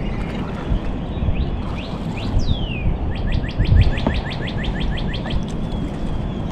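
A bird singing: one falling whistle, then a fast trill of short down-slurred notes, about eight a second for some two seconds, over a steady low rumble.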